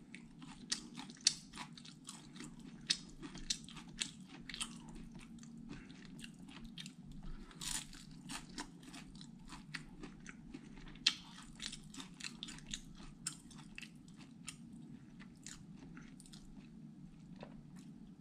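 Close-up chewing of crispy fried food: a long string of sharp, irregular crunches, over a steady low hum.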